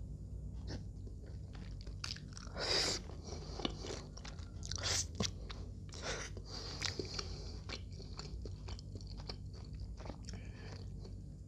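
Close-miked chewing of a mouthful of steamed siomay: irregular wet smacks and clicks of the mouth, with a few louder bites and smacks near the middle.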